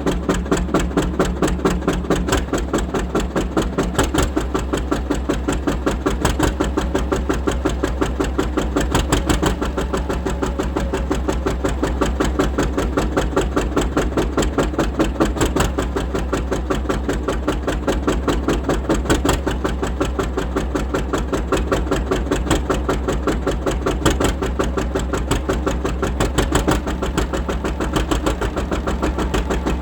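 John Deere R tractor engine running at a steady idle, with an even, fast beat that holds steady throughout.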